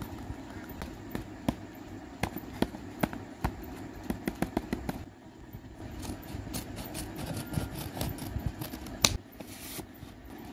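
Folded notebook-paper craft being handled: rustling and crinkling with many sharp paper clicks and taps, one louder snap near the end.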